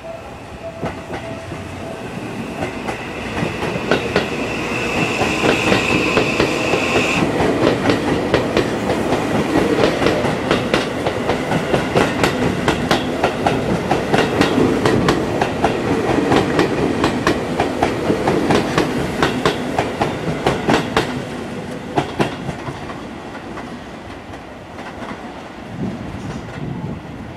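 Seibu 001 series 'Laview' electric limited express train passing close by, its wheels clacking rapidly over the rail joints. The sound builds up, with a high whine for the first several seconds, then fades as the train goes away.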